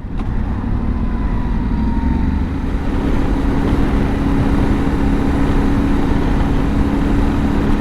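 Yamaha Ténéré 700's parallel-twin engine running at a steady pace while riding, under low wind rumble. Its note holds constant with no change in revs.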